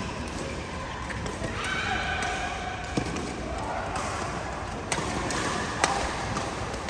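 Badminton rally: sharp racket strikes on the shuttlecock about three seconds in, then twice more near five and six seconds, over voices in the hall.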